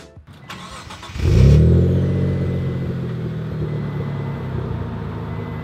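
The twin-turbo V6 of a 1995 Mitsubishi 3000GT Spyder VR4 starting: a brief crank, the engine catching about a second in and flaring up in revs, then settling into a steady idle that slowly drops in loudness.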